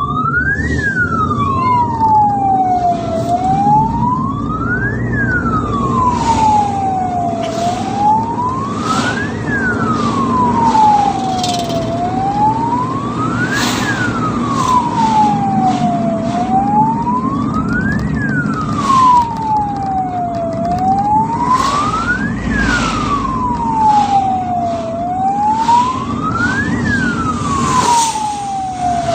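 Ambulance siren on a slow wail, its pitch climbing and falling about once every four seconds, over the low rumble of the moving vehicle.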